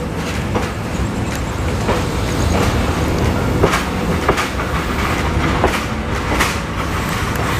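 Passenger train running slowly, heard from beside the coach: a steady rumble of wheels on the rails, with a sharp clack from the wheels on the track every second or so.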